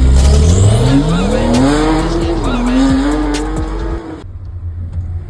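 Sport motorcycle engine accelerating hard, its pitch climbing steadily for about two seconds, then dipping and holding. About four seconds in the sound cuts off abruptly, leaving a low rumble.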